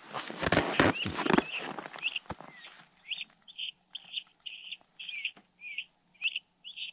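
Electronic mouse-squeak predator lure (a 'mouse chirper') giving pretty loud, high-pitched squeaks repeating evenly about two to three times a second, starting about two seconds in. Before that comes rustling and crunching.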